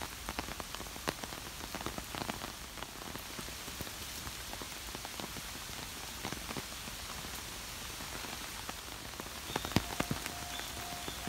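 Steady rain falling, with individual drops tapping close by. Near the end a sharp tap and a repeating electronic beep begin.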